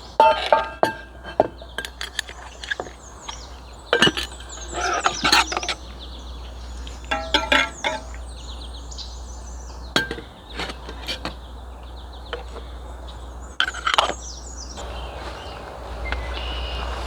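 Birds chirping, with scattered sharp clinks and knocks. Near the end a steady rushing hiss comes in.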